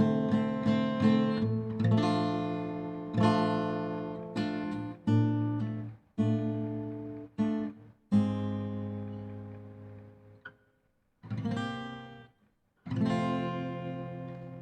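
Acoustic guitar strummed in chords, each chord ringing out and fading, with brief stops between some of them and the last chord left to die away.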